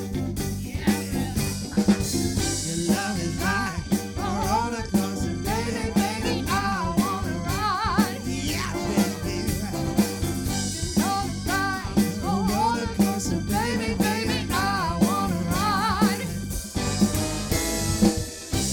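Live band music: a soul/funk band playing with drum kit, bass and guitar, a steady beat, and a wavering melodic line in the singing range through the middle.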